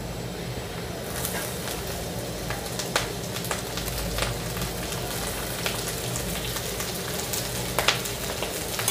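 Sliced onion and green bell pepper sizzling in hot mustard oil in an iron kadhai, the hiss thickening about a second in as the peppers go in. A steel spatula scrapes and clicks against the pan a few times.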